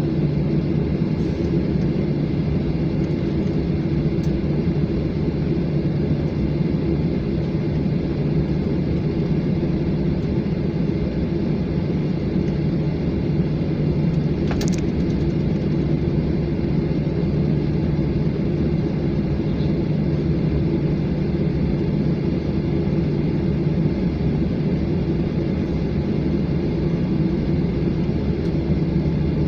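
Steady rumble and hum inside a jet airliner's cabin, the engines running at low power before takeoff. One faint click about 15 seconds in.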